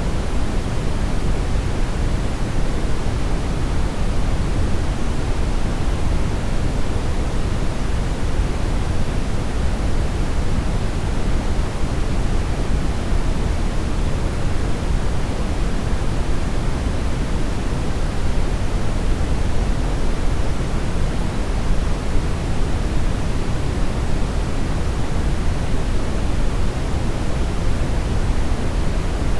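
Steady synthetic brown noise: an even, deep rushing hiss, strongest in the low end and falling off toward the highs, with no change or events.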